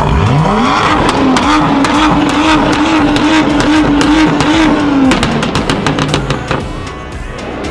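Sports car engine revved sharply up and held at high revs for about four seconds, then let off. Exhaust crackles and pops run through the hold and after the throttle closes: the popping and banging of a tuned exhaust on overrun.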